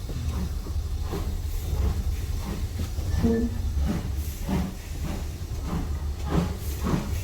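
Steam-hauled train running, heard from a passenger carriage: a steady low rumble with a faint hiss and a regular beat about two to three times a second.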